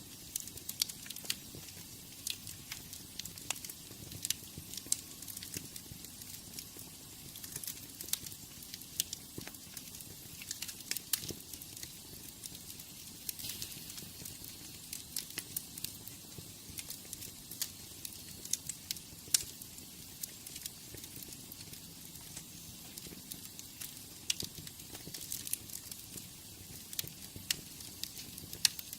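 Wood fire in a fireplace crackling: a steady hiss of flames with frequent sharp, irregular pops and snaps.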